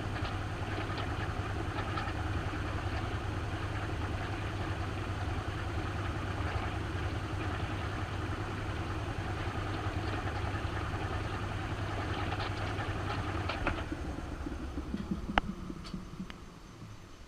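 Maytag washing machine near the end of its cycle, heard from inside the tub: the motor and spinning tub give a steady hum, which winds down and fades out from about fourteen seconds in. A few sharp clicks follow near the end.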